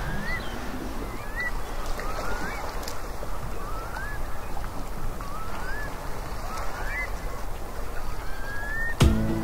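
Birds calling: a string of short rising calls, about one a second, over a steady hiss. Band music comes in abruptly near the end.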